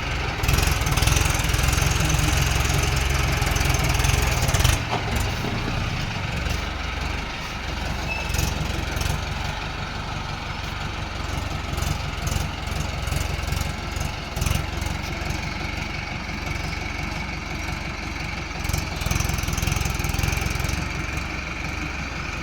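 Mahindra Arjun 555 tractor's diesel engine running with a deep roar, loudest for the first five seconds or so, then settling to a steadier, somewhat quieter run.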